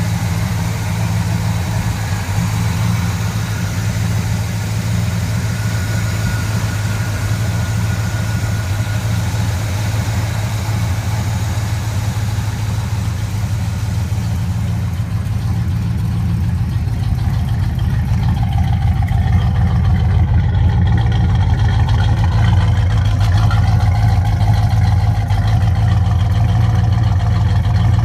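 1970 Pontiac GTO Judge's V8 idling steadily, a little louder over the last ten seconds.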